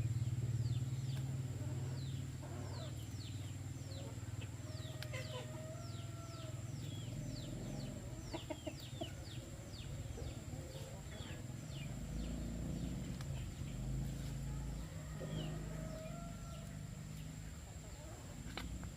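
Chickens calling, with a long run of short, high, falling peeps repeating through most of the stretch and a few lower clucks between them. A steady high-pitched tone sounds underneath throughout.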